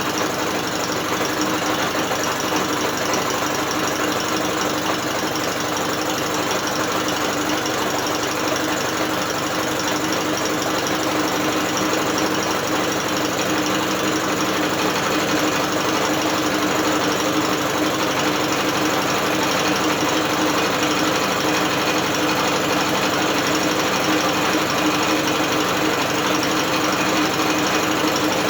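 Electric drill turning a British Seagull two-stroke outboard motor over without it firing: a steady, even mechanical whirr with a constant hum.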